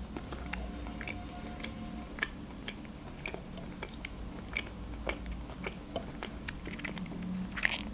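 Close-miked chewing of a soft milk-burger sponge snack: a string of small, irregular mouth clicks.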